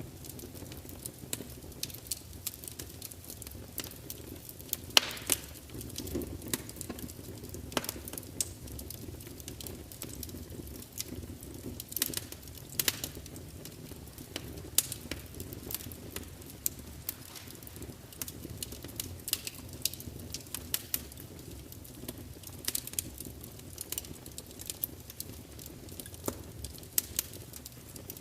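Large log fire burning in an open fireplace: a steady low rumble of flames with frequent irregular crackles and pops as the wood spits, a few sharper snaps standing out about five and eight seconds in.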